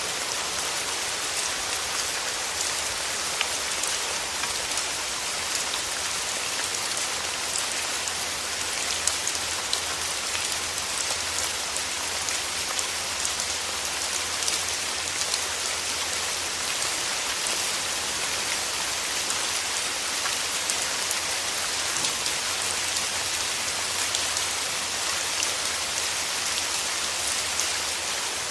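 Steady rain falling on a surface, an even hiss full of small drop ticks, with a faint low rumble underneath.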